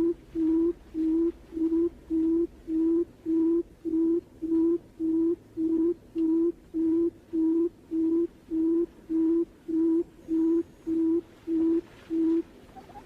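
Barred buttonquail's booming call: an even series of low hooting notes, about three every two seconds, stopping shortly before the end.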